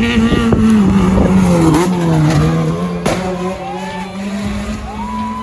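Rally car engine running hard, loudest in the first two to three seconds and then fading as the car moves off.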